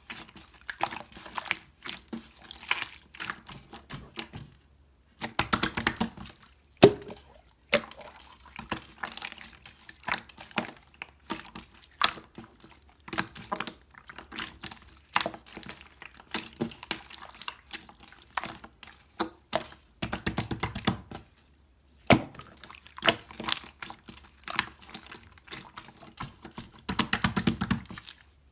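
Hands squishing and poking clear slime: a fast, irregular run of clicks and pops, with a couple of short pauses.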